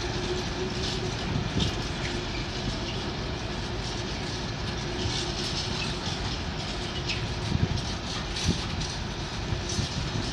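Freight train of yellow open engineering wagons, hauled by two Class 90 electric locomotives, rolling past, its wheels rumbling and clattering on the rails. A steady hum fades after about four seconds.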